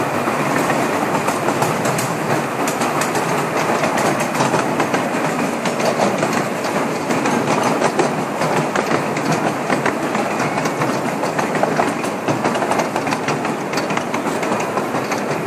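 Ride-along sound of a one-foot-gauge miniature railroad train in motion: small steel wheels rolling and clicking steadily over the rail joints, with a continuous rumble of the cars.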